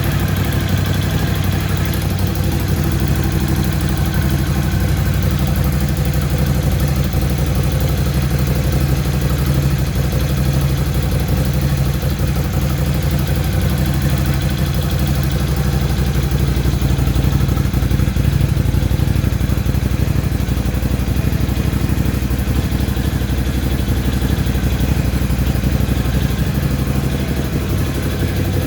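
Ducati Scrambler 1100's air-and-oil-cooled L-twin engine idling steadily on its first run from new.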